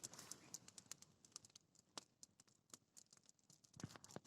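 Faint crackling of a small bonfire of dry grass: many quick, sharp little clicks and pops at an uneven pace, with one somewhat stronger pop near the end.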